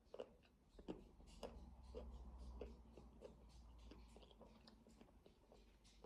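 Faint chewing of a spicy mushroom snack: small wet clicks and soft crunches, with a low hum underneath.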